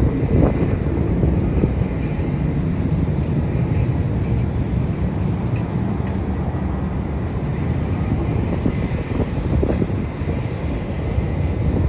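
Wind buffeting the microphone: a steady low rumble with no words.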